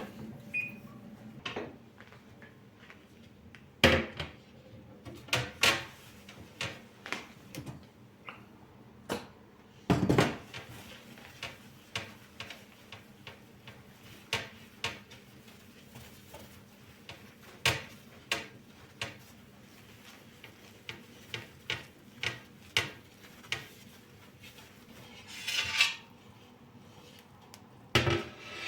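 Dishes, pans and cutlery clinking and knocking as they are handled, in irregular single knocks with a few louder clatters.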